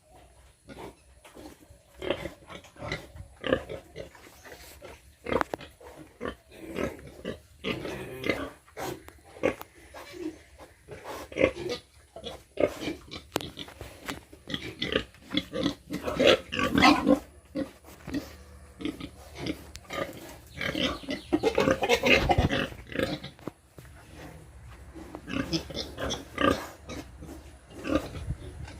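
Pigs calling in their pens: a steady run of short, irregular grunts, with louder, longer calls about halfway through and again a little later.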